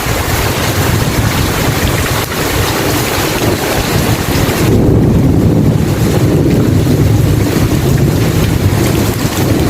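Heavy rain hissing steadily. About halfway in, a deep rolling rumble of thunder swells up while the rain's hiss thins, and the rumble carries on to the end.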